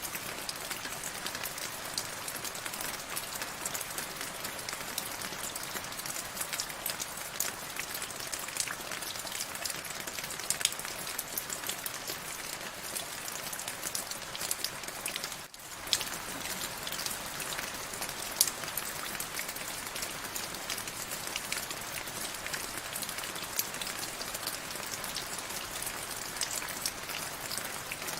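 Steady rainfall, a dense even hiss with many separate drops ticking and pattering through it. It dips briefly about halfway through, then carries on.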